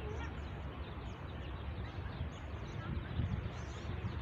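Small birds chirping over a steady low rumble, typical of wind on the microphone outdoors.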